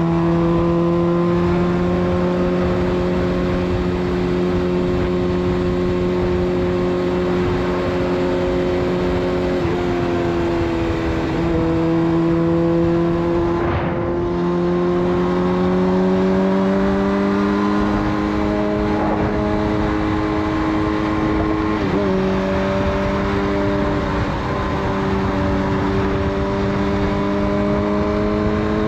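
Suzuki GSX-R 600 inline-four running through a de-catted full Yoshimura exhaust at steady highway cruise, over wind noise. Its pitch dips and rises slightly a few times as the throttle eases and opens, and a brief rush of noise comes about halfway through.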